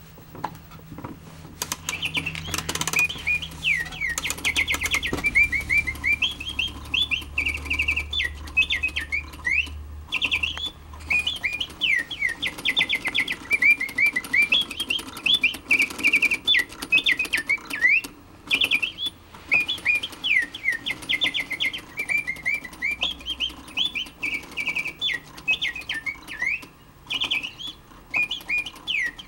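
A 19th-century automaton singing bird in a cage, its clockwork-driven bellows and whistle sounding a chirping, trilling birdsong. The song comes in phrases of quick repeated notes and rising and falling glides, starting about two seconds in, with a light mechanical clicking beneath it.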